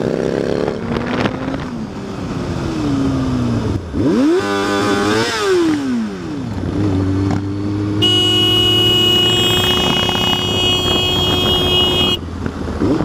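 Motorcycle engine revving, its pitch climbing and dropping several times. About two-thirds of the way in, a steady high-pitched tone with many overtones sounds for about four seconds and cuts off abruptly.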